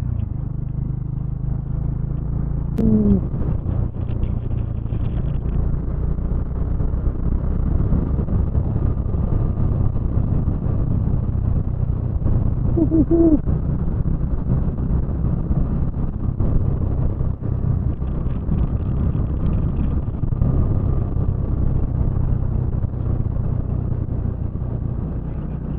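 Motorcycle engine running at a steady pace while riding, a constant low drone with wind and road noise over the helmet microphone.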